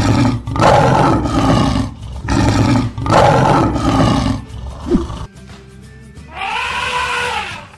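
A lion roaring: a run of loud, rough roars through the first five seconds, over a faint music track. Near the end a single pitched call rises and falls once.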